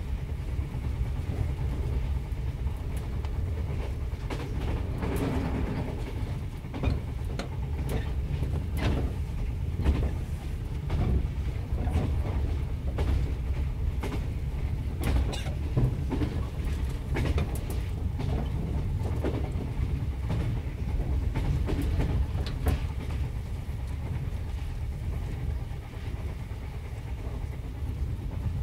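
Interior of a Japanese National Railways Yokosuka Line electric train running at speed: a steady low rumble of the car, with the wheels clicking sharply over rail joints every second or so.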